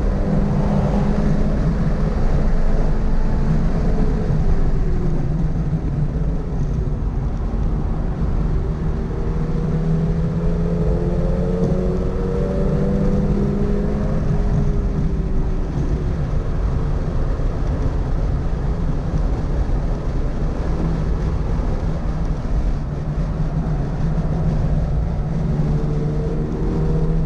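Toyota GR86's 2.4-litre flat-four engine under track driving, its pitch rising under acceleration and falling off as the driver lifts and brakes for corners, over a steady low rumble of road and wind noise.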